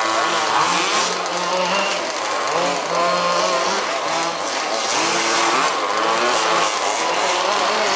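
Several 1/5th scale RC buggies' small two-stroke petrol engines racing at once, their overlapping high-pitched whines rising and falling as the cars throttle up and back off.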